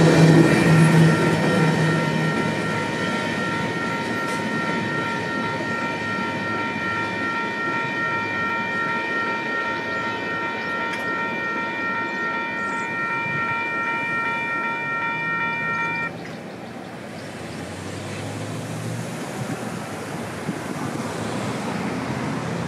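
Tail end of a Union Pacific freight train of covered hopper cars passing and fading over the first two seconds. A railroad crossing bell keeps ringing steadily and stops abruptly about 16 seconds in, and road vehicles approach near the end.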